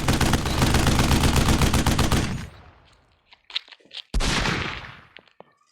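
Rapid automatic gunfire. One long burst stops about two seconds in, a few faint clicks follow, then a second, shorter burst starts about four seconds in and fades out.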